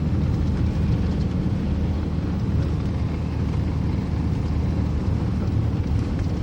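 Steady low rumble of a car driving, heard from inside the cabin: engine and road noise on a snow-covered highway.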